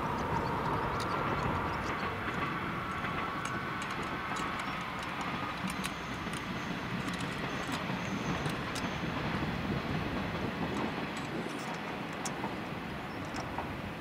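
A train passing: a steady rumble with a faint whine over the first few seconds, slowly easing off near the end, with a few light clicks over it.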